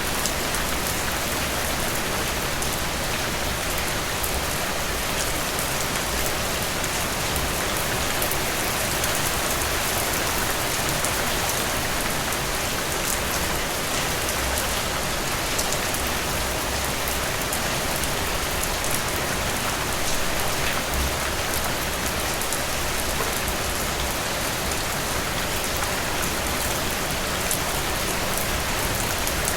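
Steady, even rain falling, with faint scattered ticks of individual drops.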